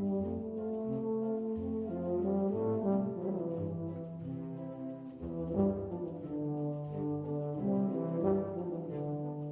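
Wind band with solo tuba playing a pasodoble: brass to the fore, held melody notes over a moving low bass line.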